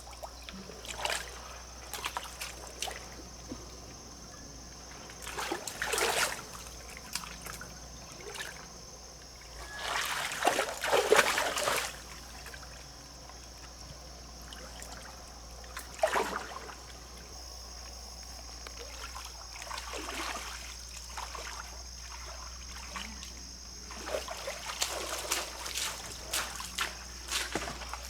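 Water splashing and trickling in irregular bursts, the longest and loudest about ten seconds in, over a steady high thin tone.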